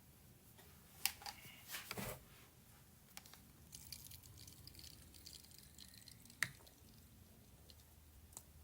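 Faint handling sounds of a marinade injector and raw turkey: a few sharp clicks and small wet drips and squishes, the loudest click about a second in and another past the middle.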